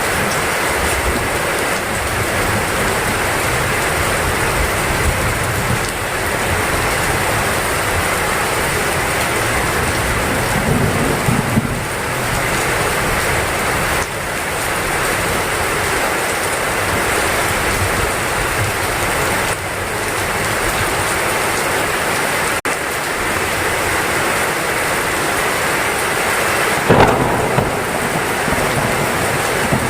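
Heavy rain pouring steadily, with thunder rumbling low underneath and a louder, sudden thunderclap near the end.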